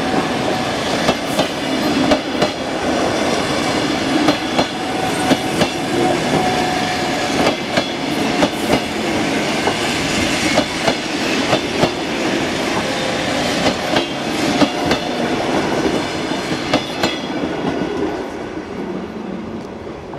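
Passenger coaches rolling past close by at speed: a steady rumble of wheels on rail with repeated sharp clacks as the wheels cross rail joints, fading near the end as the last coach goes by.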